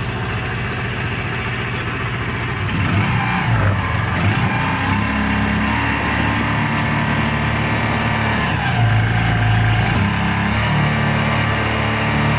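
An engine running, getting louder about three seconds in and then revving up and down.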